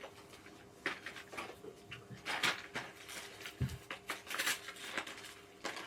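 Gaming chair parts and hardware being handled: scattered light clicks, knocks and rustles, with one dull thump about three and a half seconds in.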